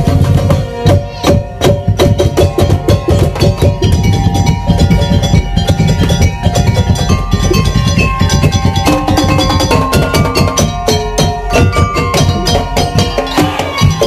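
Daul Madura music: a tong-tong percussion ensemble playing fast, loud drum and wood-block rhythms under a pitched melody line of held notes.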